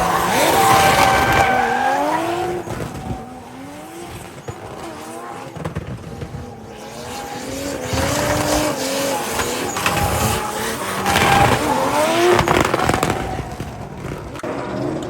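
Drift car engines revving up and down as they slide, with tyres squealing; loudest in the first two seconds and again from about eight to thirteen seconds in.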